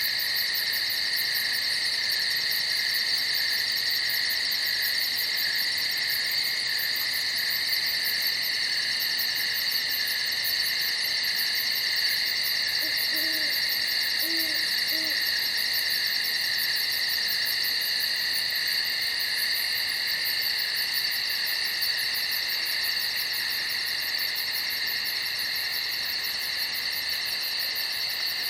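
Steady night chorus of crickets, an unbroken high-pitched trilling, with three short, soft low hoots about halfway through.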